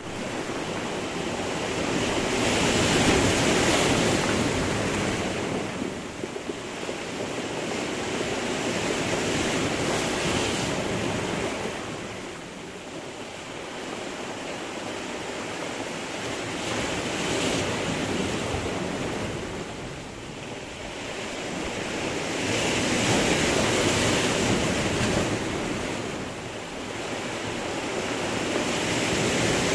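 Sea surf breaking against a stony shore: a continuous rushing wash that swells as each wave comes in and sinks back between them, about every six to seven seconds.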